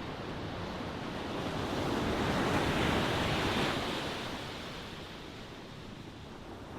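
Ocean waves: a wave swells up, breaks and washes out over about three seconds in the middle, over a steady background of surf.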